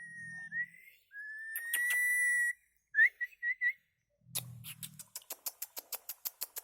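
Whistling on one pitch: a few short rising chirps, long held whistles, then a run of quick clicks over the last couple of seconds.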